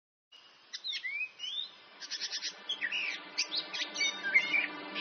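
Birds chirping and singing: many quick chirps and rising and falling whistled notes that come in suddenly about a third of a second in, with faint steady tones beneath from about two seconds in.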